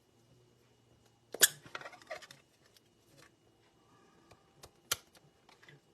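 Stamping supplies being handled: a sharp click about a second and a half in, followed by brief light tapping, and another sharp click just before the end, as an ink pad and a clear stamp are picked up and used.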